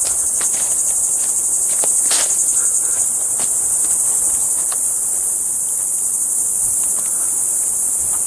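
A steady, high-pitched chorus of insects, with scattered snaps and crunches of footsteps through dry forest undergrowth.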